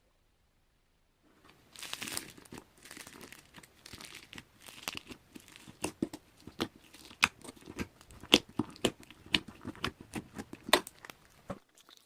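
Crinkling and rustling of something being crumpled or handled, broken by many sharp clicks and taps, for about ten seconds; it starts about a second in and stops shortly before the end.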